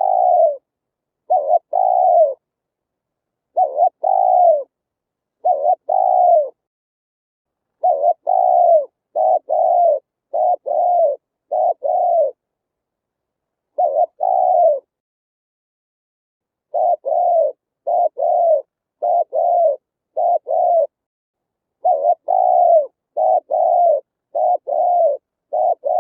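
Spotted dove cooing: a long run of short, low coos, mostly in pairs about a second apart, with a pause of nearly two seconds just past the middle. It is the call played to lure wild doves.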